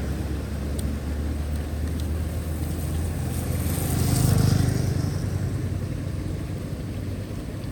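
A motor vehicle driving past with a low engine hum and tyre hiss, growing louder to a peak about halfway through and then fading.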